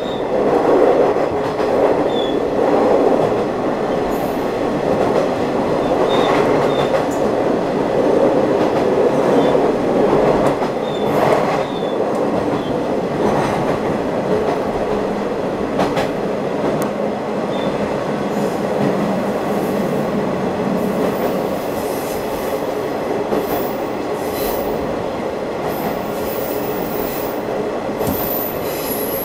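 Train on the Watarase Keikoku Railway heard from aboard, running steadily along the track with a continuous wheel-on-rail rumble. A few short, high wheel squeals and the odd knock come through over it.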